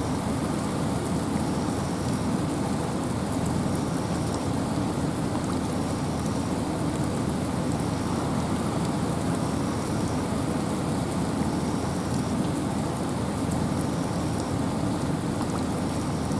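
Steady rain and wind in a forest: an even, unbroken hiss that holds at one level throughout.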